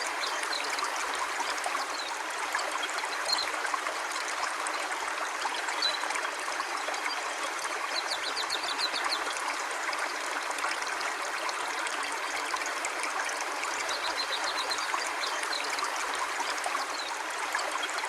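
River water flowing steadily, with a few short high chirps now and then.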